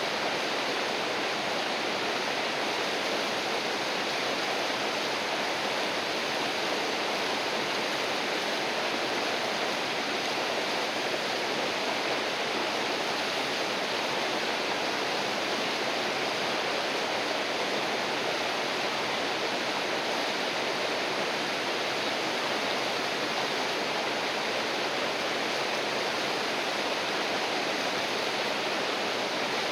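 River water rushing, a steady, even rush with no change.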